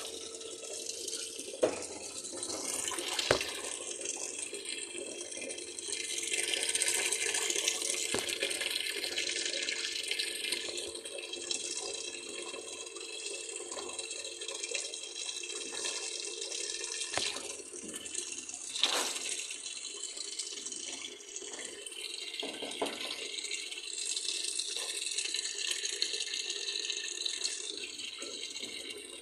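Water running steadily, as from a tap into a washing machine or tub during a wash, over a steady low hum, with a few sharp knocks now and then.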